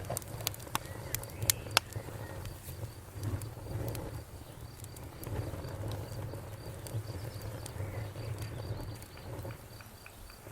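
Wood fire in a fireplace crackling, with a cluster of sharp pops in the first two seconds and fewer later, over a steady low rumble. A faint, even, high-pitched ticking runs behind it.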